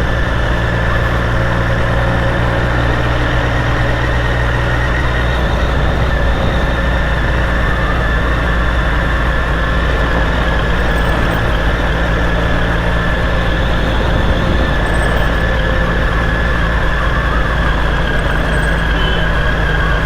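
Triumph Street Triple R motorcycle's three-cylinder engine running steadily while riding at an even speed, with a constant rush of road and wind noise.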